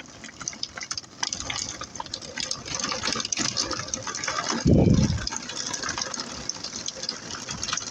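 Heavy rain falling and splashing, a dense patter of drops, with a brief low thump about halfway through.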